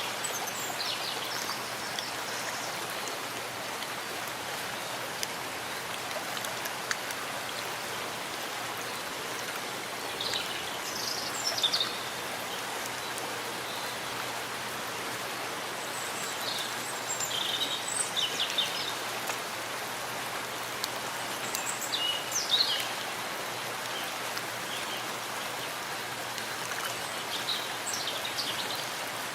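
Steady rain falling in a forest, an even hiss with soft splashing, while a bird gives short high chirps every few seconds.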